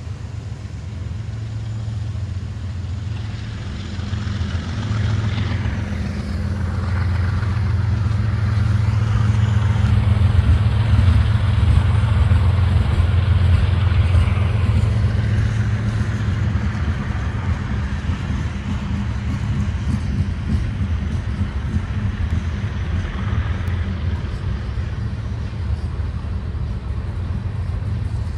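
Loaded freight cars rolling past at close range: a steady, loud rumble of steel wheels on the rails, swelling for several seconds in the middle and then easing a little.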